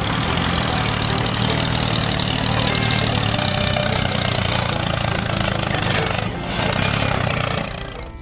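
A vehicle engine sound running steadily at idle, with a low hum under a broad rattly noise, which drops away less than a second before the end.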